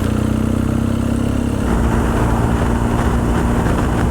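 2007 BMW R1200GS boxer-twin engine running steadily under way, with wind rush over it; the engine note shifts slightly about one and a half seconds in.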